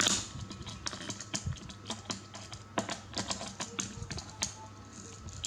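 Irregular light taps and clicks, several a second, like small hard objects being handled or knocked together.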